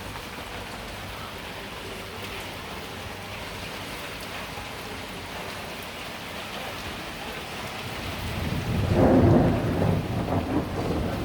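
Heavy rain falling steadily, then a rumble of thunder swells in about eight seconds in, loudest a second later and rolling on through the end.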